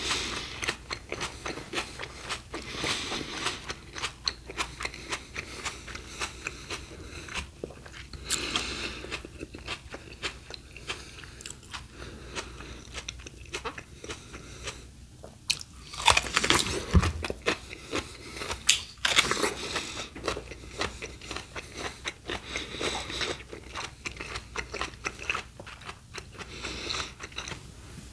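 Close-miked crunching and chewing of crisp raw fruit and vegetables, a continual irregular crackle of bites and chews. A few louder crunching bites come a little past the middle.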